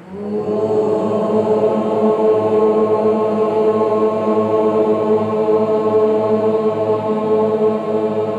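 A low, chant-like drone held on one steady pitch, rich in overtones, starting abruptly.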